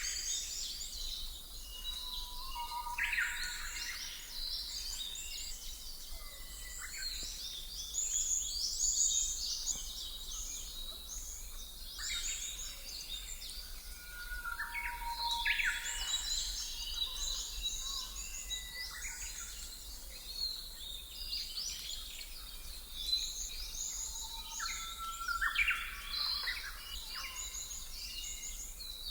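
Birdsong ambience: many small birds chirping and trilling without pause, with louder bursts of song now and then, over a faint low steady rumble.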